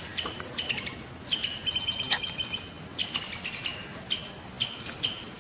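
A bird calling repeatedly in short, high chirps that come in clusters about once a second, with a sharp click about two seconds in.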